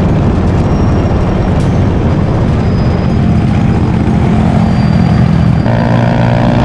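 Motorcycle engine running under way, its steady note mixed with heavy wind rush; the engine note changes about five and a half seconds in.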